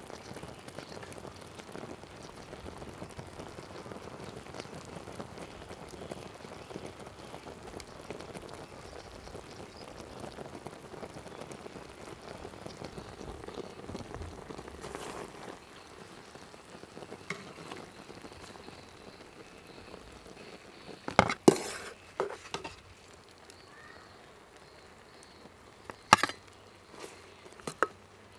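Pig intestines sizzling and bubbling in a pan of reducing sauce, a steady crackle that drops away about fifteen seconds in. After that there are a few sharp knocks, a cluster of them about two-thirds of the way through and more near the end.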